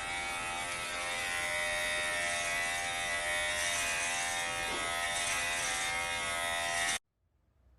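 Electric hair clippers running with a steady buzz, which cuts off suddenly near the end.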